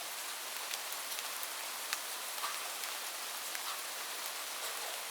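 Steady rain, a dense even hiss with scattered sharper drops ticking against a surface.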